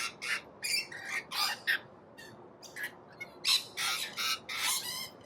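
A flock of rainbow lorikeets screeching: many short, shrill calls overlapping one another, with a brief lull around two seconds in.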